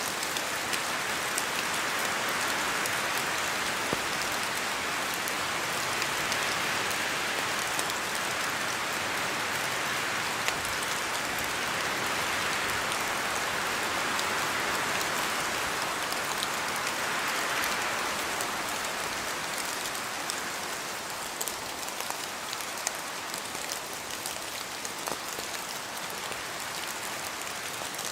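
Steady rain falling in a forest, with many single drops from the trees pattering through the hiss. The rain swells and eases a little, somewhat softer in the last third.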